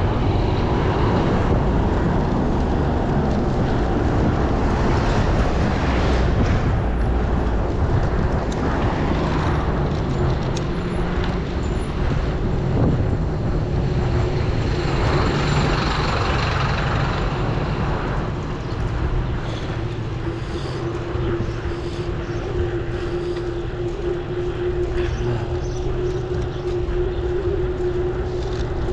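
Steady road rumble and wind noise from riding along a road, with a steady hum that becomes stronger in the second half.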